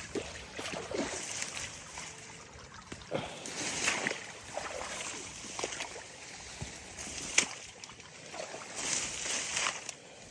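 Gumboots wading through deep creek water: slow, irregular sloshing and splashing steps, one every second or two.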